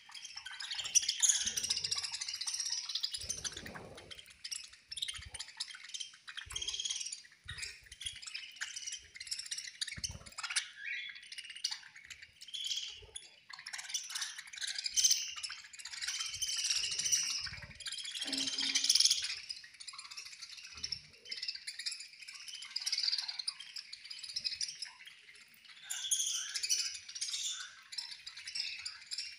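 Many budgerigars chattering and warbling at once: a dense mix of chirps and trills. A few soft knocks sound now and then underneath.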